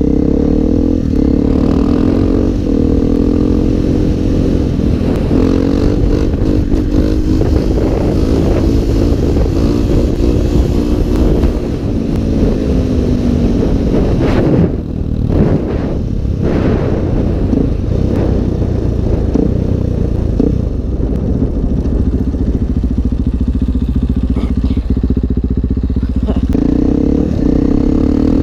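Motorcycle engine running at fairly steady revs while riding. About halfway through the pitch sags, and the sound breaks up for a couple of seconds before settling back to steady running.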